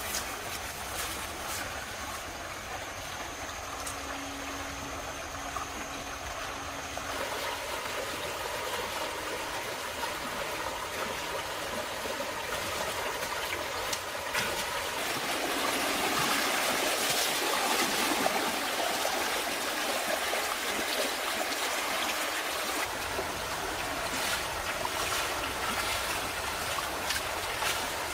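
Water running and trickling steadily, with a few light knocks over it; it swells a little past the middle.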